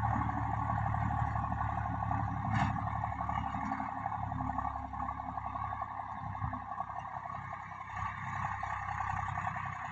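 Swaraj tractor's diesel engine running steadily, with a fast even pulsing, and a single short click about two and a half seconds in.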